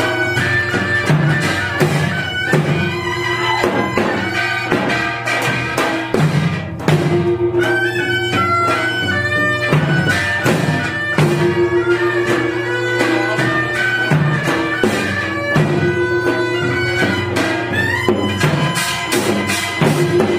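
Korean traditional accompaniment for the Jindo drum dance: a reedy wind instrument plays a bending melody over repeated drum strokes, with bowed strings lower in the mix.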